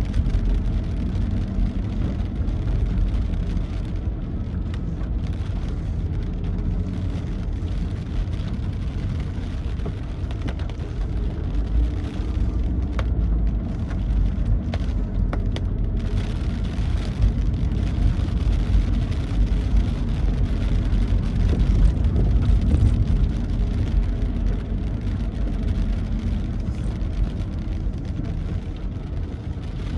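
Steady low rumble of a vehicle driving along a road, engine and tyre noise, on a rainy day.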